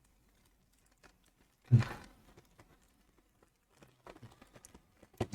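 Plastic model-kit parts and box being handled: a single dull thud about two seconds in, then light clicks and rustles of plastic sprues and bags near the end.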